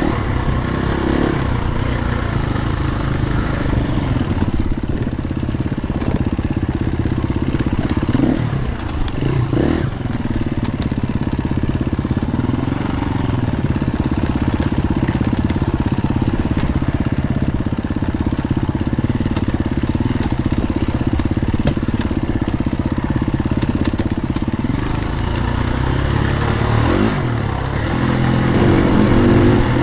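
Enduro dirt bike engine running under way, its pitch rising and falling with the throttle and climbing near the end.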